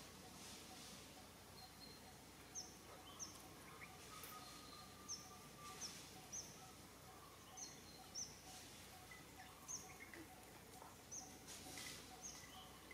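Faint outdoor ambience with small birds chirping: short, high chirps every second or so over a low background hiss.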